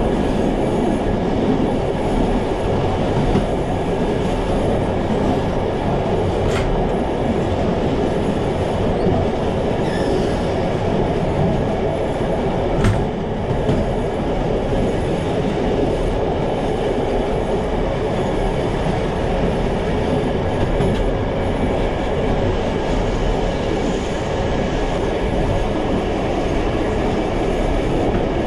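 Passenger train coaches running along the track: a steady rumble of wheels on rail, with two brief sharp clicks about six and a half and thirteen seconds in.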